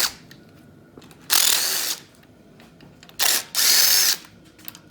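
Impact gun run in short bursts to loosen the rocker arm bolts on a Chevy 5.3 LS V8. There are about three half-second runs, each with a rising motor whine, and the last one stutters briefly before it runs on.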